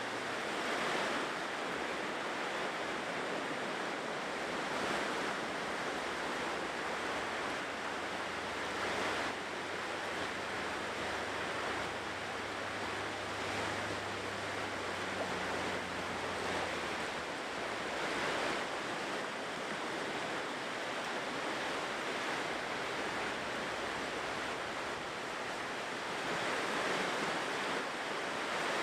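Ocean surf washing onto a shore: a steady wash of water with a wave swelling up every few seconds.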